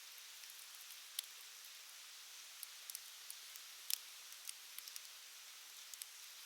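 Wood fire crackling: scattered sharp pops and snaps at irregular intervals, the loudest about four seconds in, over a soft steady hiss.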